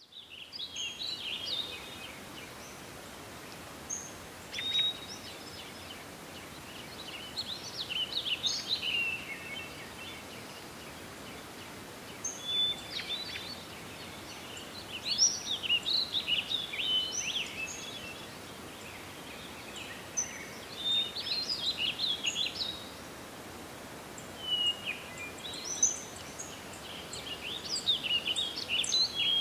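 Bird song: short phrases of quick chirps and trills that come every few seconds, with pauses between them, over a steady background hiss.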